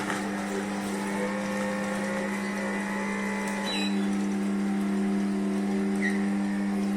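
Cold-press slow juicer's motor running with a steady hum, which gets louder about halfway through.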